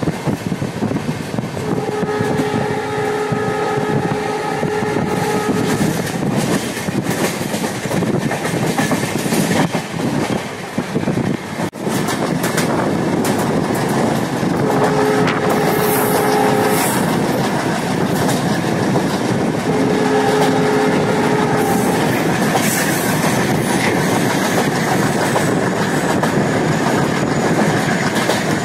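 Passenger train running, heard from the open doorway of a moving coach: a steady rumble with wheels clicking over the rails. A train horn sounds three times, one long blast of about four seconds near the start and two shorter blasts past the middle.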